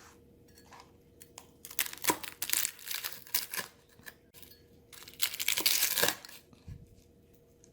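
Knife cutting through a crisp deep-fried turon: the fried lumpia wrapper crackles and crunches in two bouts of quick snapping, the second one near the end being the louder.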